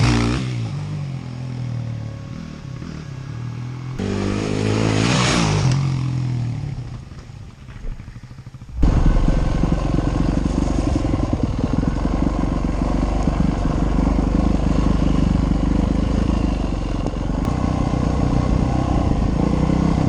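Dirt bike engine revving up and falling away twice, with abrupt breaks in the sound. From about nine seconds in there is a steady, dense engine drone with rapid flutter, as the bike rides along the trail.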